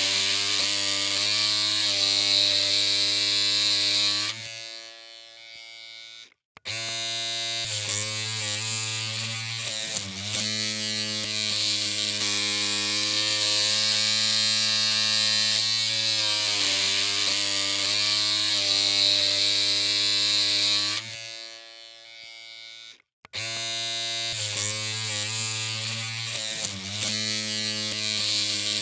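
Electric hair clippers humming steadily with a buzzing edge. The hum drops out about four seconds in and starts again about two and a half seconds later. The same happens again at about 21 seconds, with the hum back near 23 seconds.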